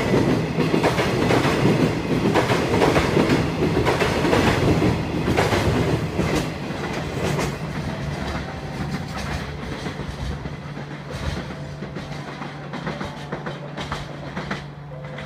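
Freight train's container flatcars rolling past, their wheels clicking and clattering over the rail joints, then fading as the end of the train draws away about halfway through. A steady low hum remains near the end.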